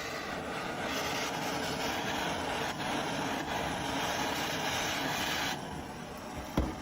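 A loud, steady, harsh mechanical noise, typical of a power tool working on metal. Its higher part drops away about five and a half seconds in, and a single thump comes near the end.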